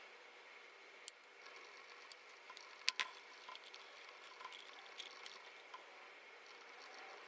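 Scattered small clicks and taps of hand tools and tiny parts being handled while working on a Canon PowerShot S110 compact camera, the loudest a sharp double click about three seconds in.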